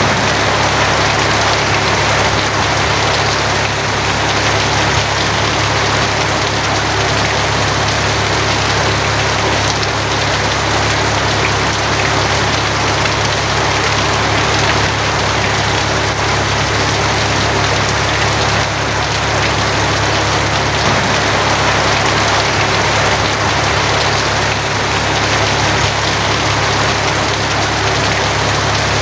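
Steady heavy rain drumming on a tin roof, an even unbroken patter, with a steady low rumble underneath.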